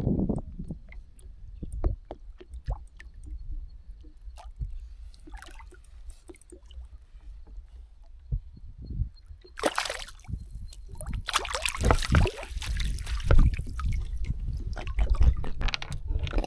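Water sloshing and splashing, louder and busier in the second half, with scattered knocks and a low wind rumble.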